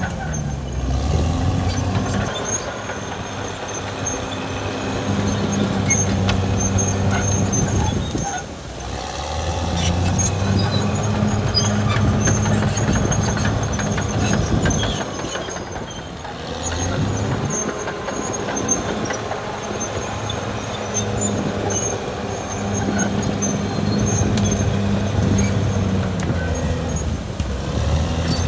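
Caterpillar D6R XL bulldozer's diesel engine running under load; its note drops back twice, about eight and sixteen seconds in, then comes up again.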